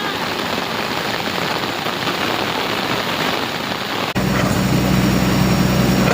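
Heavy rain pouring down. About four seconds in, the sound cuts abruptly to a steady low engine hum.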